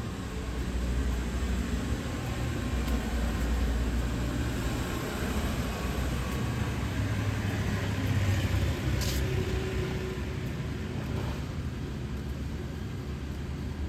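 Street traffic: motor vehicle engines running past in a low rumble that swells and fades, with one brief sharp click about nine seconds in.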